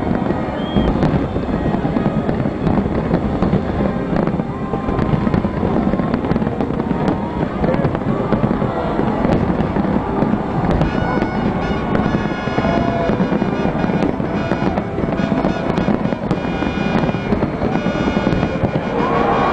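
Fireworks finale: a dense, continuous barrage of firework bursts with a steady low rumble of booms. From about halfway through, a thick layer of high crackling joins in.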